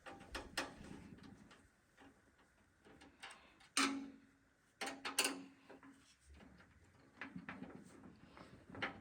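Clicks and clanks of hands handling a metal PC case and its parts. The loudest knocks come a little before the middle and twice just after it, each followed by a brief low ring.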